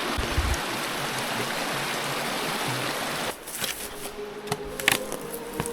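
Running water of a mountain stream, a steady rushing hiss. About three seconds in it cuts off abruptly to a quieter scene with a few sharp clicks and faint sustained tones.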